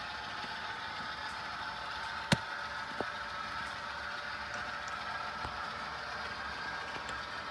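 HO scale model train running on sectional track with a steady mechanical hum. A sharp click comes about two seconds in and a fainter one about a second later.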